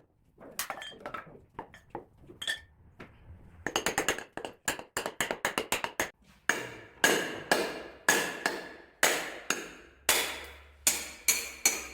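Hammer striking a steel wood-splitting wedge, with sharp ringing metal-on-metal blows. Scattered light taps at first, then a quick run of about four or five strikes a second, then heavier ringing blows about twice a second through the second half.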